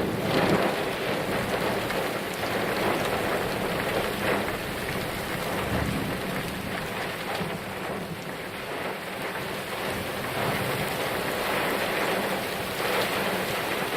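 Heavy rain pouring steadily, a dense continuous hiss and patter.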